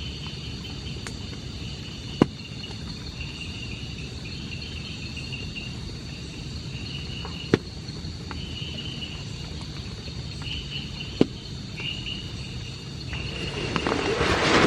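Forest insects trilling steadily, one high buzz held throughout and a second one coming and going in stretches, over a steady low hiss. Three sharp ticks fall about two, seven and a half and eleven seconds in, and a louder noisy rush builds near the end.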